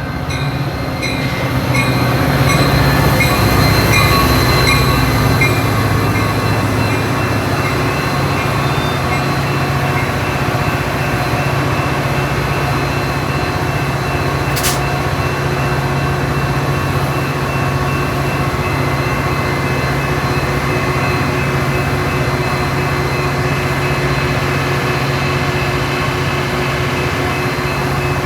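A Metra diesel commuter train running at the station with a steady, loud engine hum. A fast, regular high-pitched pulsing stops about five seconds in, and a single sharp click sounds about halfway through.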